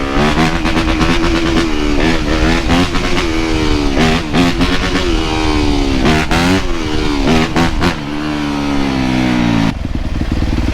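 Dirt bike engine revving up and down over and over while riding, its pitch rising and dropping many times with quick breaks between. About a second before the end it changes abruptly to a steadier, lower engine sound.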